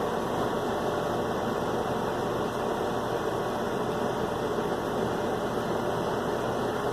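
A steady, even machine hum with a few faint held tones in it, as from a motor or engine running.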